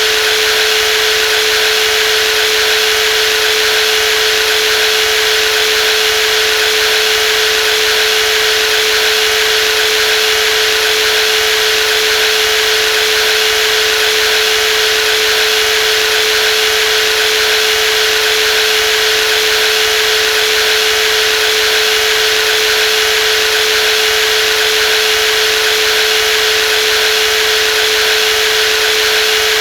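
Brushless jigsaw motor running continuously at a steady speed, a constant high whine over a hiss, with no change in pitch or level.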